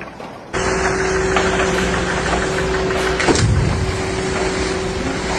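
A machine running steadily with a constant hum over a rough noise. It cuts in suddenly about half a second in, with a single sharp knock a little past halfway.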